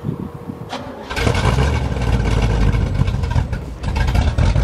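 Carbureted engine of a 1970s drag car catching about a second in and then running, its level rising and falling with the throttle and louder again near the end.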